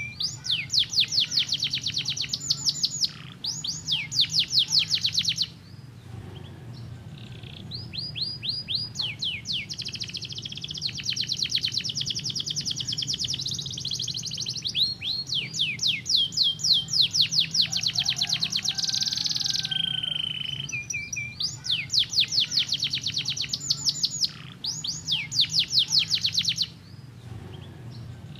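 Domestic canary singing: fast trills of rapidly repeated sweeping notes in phrases of a few seconds, broken by short pauses, over a steady low hum.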